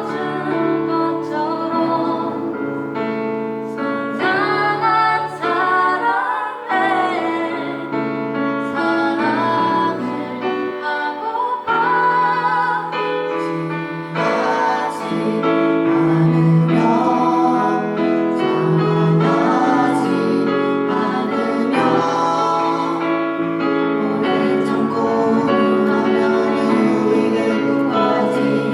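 A group of mainly female voices singing a Korean gospel praise song in unison and harmony over a sustained instrumental accompaniment, with vibrato on held notes.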